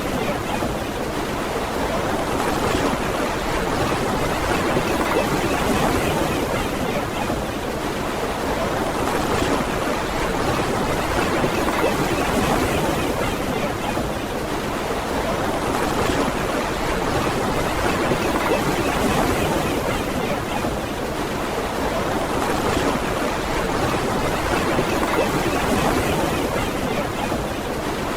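Ocean surf washing onto a beach: a steady wash of breaking waves that swells and eases gently every few seconds.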